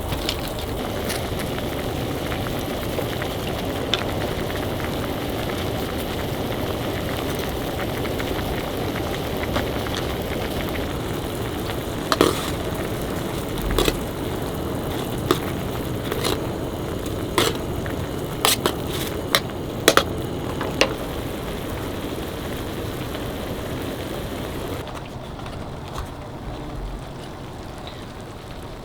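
Food sizzling and crackling in a hot pan, with a run of sharp taps and clicks partway through; the sizzle falls away and gets quieter near the end.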